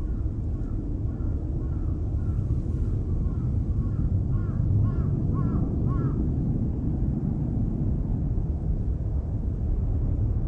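A crow cawing in a rapid series of short calls, louder toward the middle, stopping about six seconds in, over a steady low rumble.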